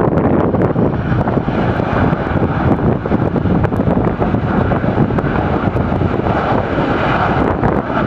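Airliner engine noise as a plane passes on the runway, swelling over a few seconds and easing off near the end, with wind buffeting the microphone.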